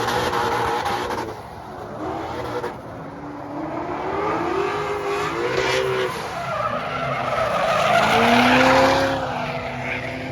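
Drift car engine revving up and down with tyres screeching as the car slides, loudest about eight seconds in.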